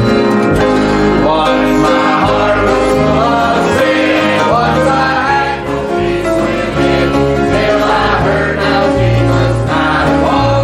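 Gospel music: voices singing together over instrumental accompaniment with steady bass notes. The singing comes in about two seconds in.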